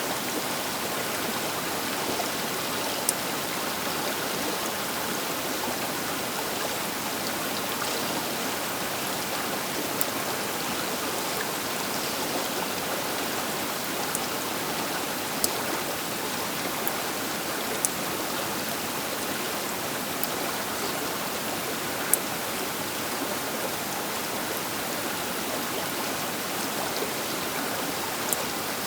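The Baker River flowing: a steady, even rush of water, with a few brief sharp ticks over it.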